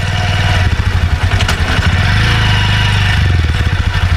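Honda SP125's 124 cc single-cylinder engine running with an even low exhaust beat. It picks up slightly in the middle, then settles back to a pulsing idle near the end.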